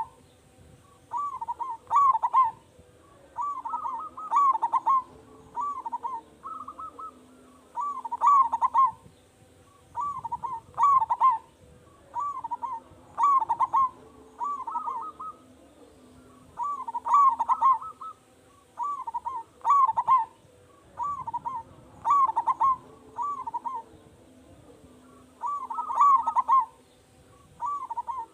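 Local zebra dove (perkutut) singing steadily: short phrases of rolling, stuttering coos, one every second or two, pausing briefly twice before starting up again.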